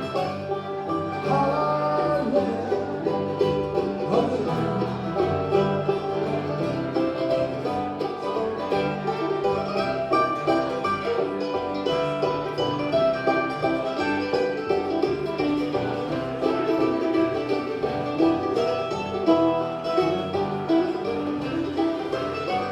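A bluegrass band playing an instrumental break, with banjo and guitar picking steadily.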